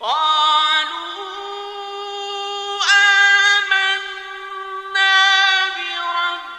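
A male Qur'an reciter's voice in melodic mujawwad style, drawing out long held notes. The pitch steps up slightly, and the voice swells again about three and five seconds in.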